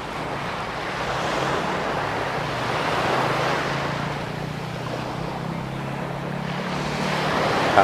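Sea waves washing up the sand close by: a steady rush of surf that swells about a second in and again near the end as a wave runs up almost to the walker's feet. A low steady motor hum sits underneath through the middle.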